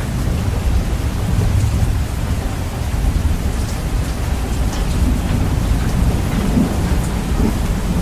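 Steady heavy rain with a low, continuous thunder rumble. The recording is bass-boosted, so the deep low end is loud and heavy.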